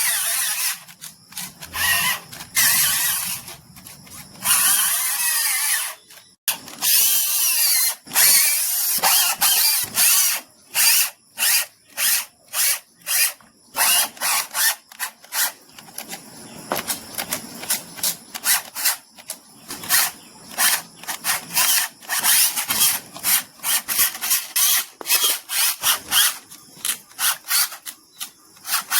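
A small power tool running in short bursts of a second or two, then quick rubbing strokes, about one or two a second, as parts of a model tractor are worked.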